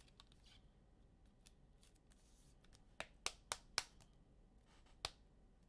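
Quiet handling of trading cards and their packaging: faint rustling with four sharp clicks in quick succession about three seconds in and one more click near the end.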